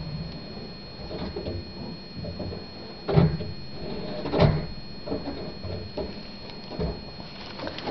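Snow shovel scraping and knocking, with two louder strikes about three and four and a half seconds in.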